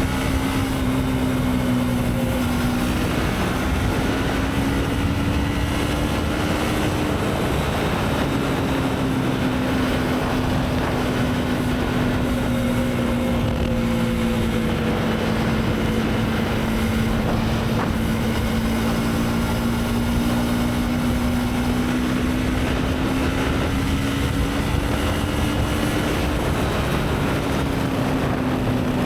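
Motorcycle engine at a steady cruise with rushing wind and road noise. The engine note holds nearly level, rising and dropping a little a few times with small throttle changes.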